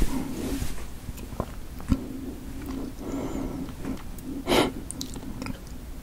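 Close-miked mouth-closed chewing of the last bite of chewy potato dumpling, with small wet clicks and one short louder rush of noise about four and a half seconds in.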